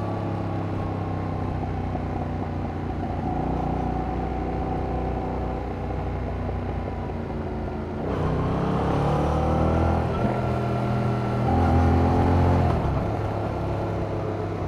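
Yamaha MT-07's parallel-twin engine through its stock exhaust, cruising at a steady, slowly falling pitch. Just past halfway it gets louder and the pitch rises under acceleration, changes note about two-thirds of the way in, then falls as the throttle is eased near the end.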